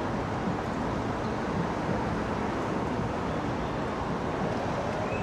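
Steady wind rush and road noise picked up by the camera while riding an e-bike through city traffic.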